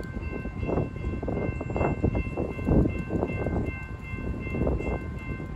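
A train led by an EMD F59PH diesel locomotive passing by: a loud rumble with irregular clatter and thuds from the wheels on the rails. A faint steady high ringing tone runs underneath.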